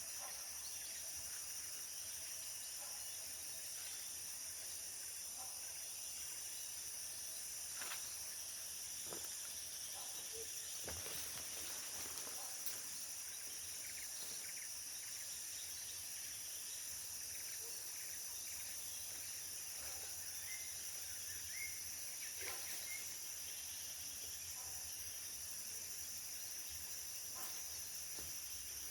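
Tropical forest ambience: a steady, high-pitched insect chorus, with scattered faint bird chirps and a few light knocks.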